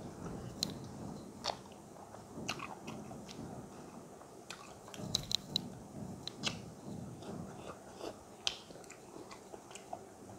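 Close-up chewing and biting of a spiced chicken wing eaten by hand: steady wet, mushy chewing with irregular sharp crunches and clicks, a quick cluster of them about five seconds in.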